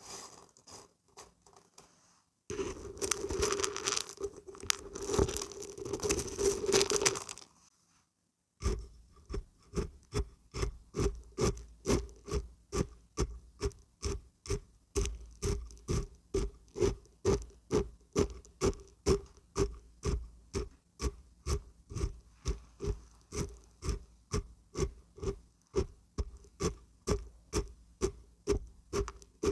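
Dried beans and barberries shaken: a dense rattle for about five seconds, a short pause, then steady rhythmic shaking at about two strokes a second, each a short rattle with a low thud.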